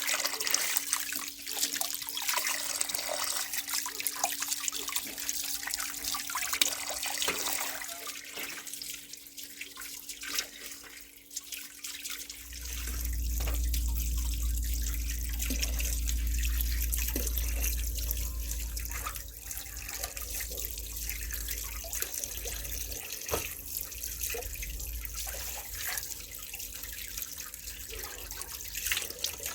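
Water running and splashing, with scattered small knocks. A low rumble comes in about twelve seconds in and dies away about ten seconds later.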